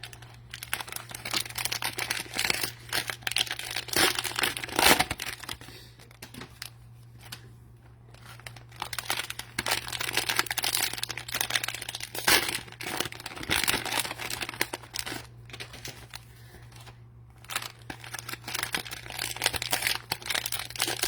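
Cellophane wrappers of trading card cello packs crinkling irregularly as the packs are handled and sorted, with louder crackles about four seconds in and again around twelve seconds, over a steady low hum.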